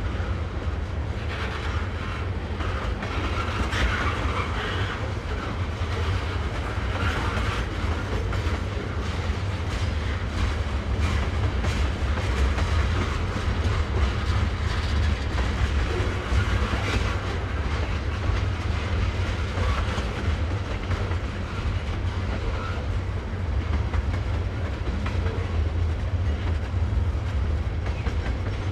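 Freight train cars rolling past steadily, with a low rumble and the wheels clicking over the rail joints.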